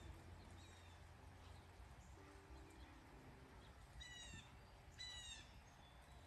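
A bird outside calls twice, about a second apart, each a short, falling call, faint over a low steady hum.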